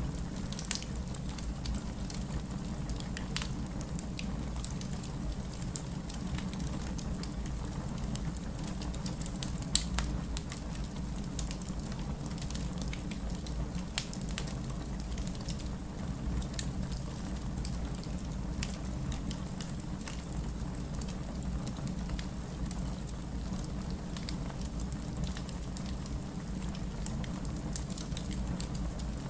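Wood fire burning steadily with a low rumble and frequent sharp crackles and pops, one louder pop about ten seconds in.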